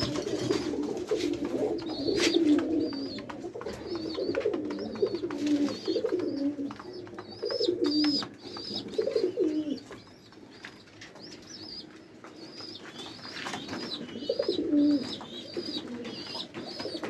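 Domestic pigeons cooing in a loft: many low coos overlapping, thinning out about ten seconds in and picking up again a few seconds later. Repeated short high chirps and scattered light clicks run alongside.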